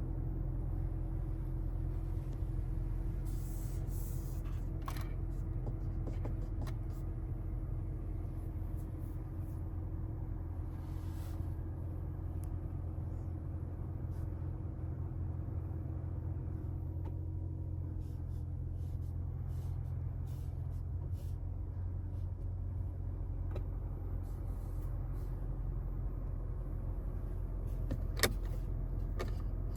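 The BMW X2 M35i's 2.0-litre turbo inline-four idling steadily, heard as a low hum inside the cabin. Scattered light clicks run through it, with one sharper click near the end.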